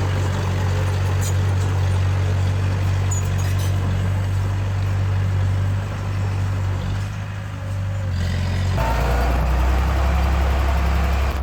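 Heavy diesel engine running steadily under load. Near the end the engine note drops lower and the sound changes suddenly.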